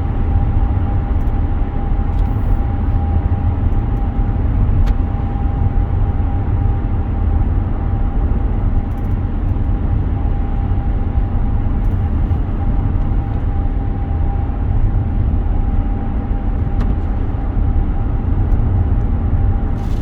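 A car driving, with a steady low rumble of engine and road noise and a constant faint whine held at one pitch.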